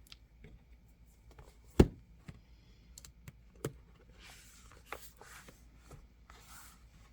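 Clear plastic planner cover being handled and trimmed along its front edge: scattered small clicks and taps, one sharp tap just under two seconds in, and a few short scratchy scrapes in the second half.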